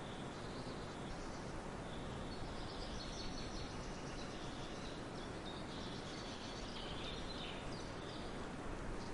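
Forest ambience: a steady background hiss with high, thin bird chirps coming and going, busiest in the middle.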